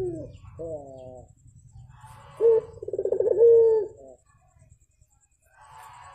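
Puter (Barbary dove) cooing. A short falling coo comes about a second in. It is followed by a louder rolling, trembling coo that ends in a held note. A faint rustle comes near the end.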